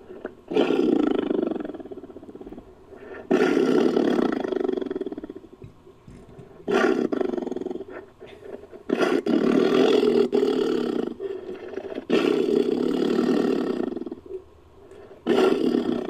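Tiger roaring: six separate roars, each one to three seconds long, with short pauses between them. It is a sound effect made from a recording of a real tiger.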